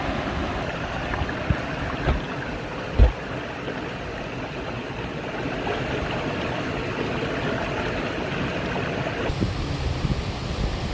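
Mountain valley stream rushing steadily over rocks. A few dull low thumps cut through it, the loudest about three seconds in.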